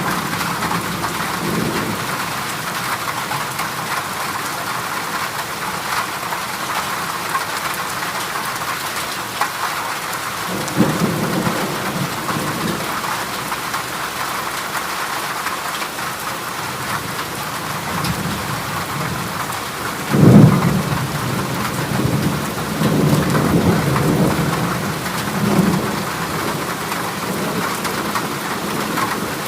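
Heavy rain falling on a corrugated zinc roof, a steady dense hiss. Thunder rumbles in several times, with the loudest, sudden clap about two-thirds of the way through, followed by rolling rumbles.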